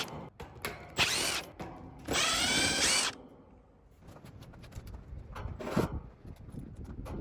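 Power drill spinning up in two short bursts, backing out the screws on a heat pump condensing unit's panels so the top and side can come off. Quieter rattling and handling of the panel follows, with one sharper knock near the end.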